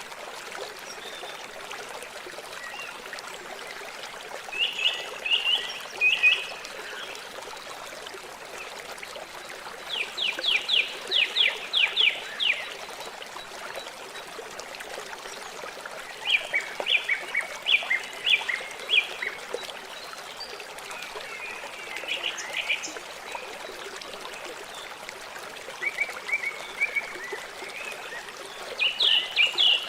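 River water flowing steadily, with an animal calling every few seconds in short trains of rapid, high clicking pulses that are louder than the water.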